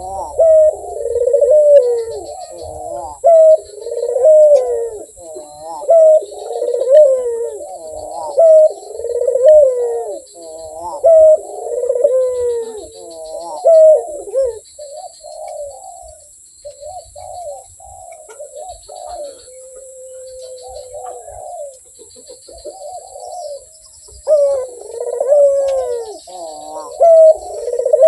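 Barbary dove (Indonesian 'puter') cooing in a long string of repeated phrases. The coos are close together and loud for the first half, thin out and soften in the middle, and come fast and loud again near the end.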